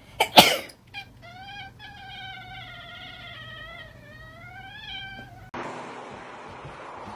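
A cat's single long, drawn-out meow lasting about four seconds, wavering up and down in pitch. It comes just after a short, loud burst of noise at the very start. Near the end it gives way abruptly to a steady hiss of noise.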